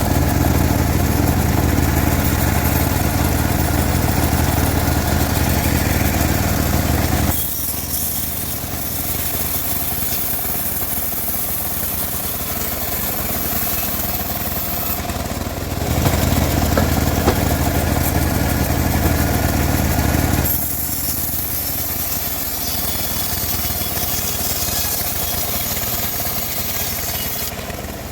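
Homemade bandsaw mill running, with a steady low engine-like hum. Twice, for several seconds each, the low hum drops back and a high hiss takes over, the blade cutting through a teak log.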